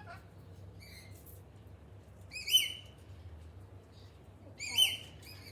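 Pet bird calling: two loud, high calls about two seconds apart, each rising then held briefly, with fainter short chirps about a second in.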